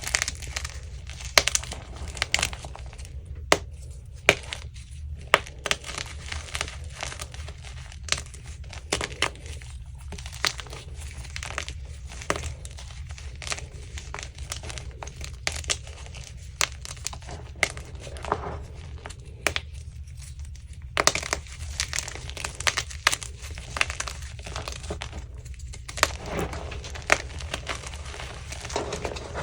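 Crunchy chunks of gym chalk being crushed and crumbled by hand: irregular dry crackles and sharp snaps, over a steady low hum.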